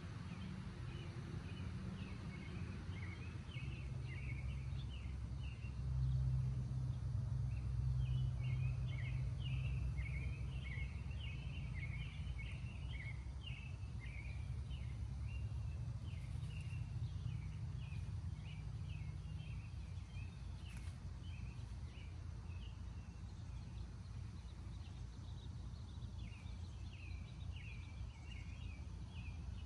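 Backyard songbirds singing in quick runs of short chirps, pausing for a few seconds near the end, over a steady low rumble that swells about six seconds in.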